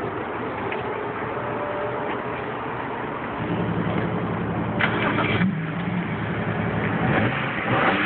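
BMW 3 Series coupe's engine starting about three and a half seconds in and settling into a steady idle, with a brief rise in pitch about five seconds in.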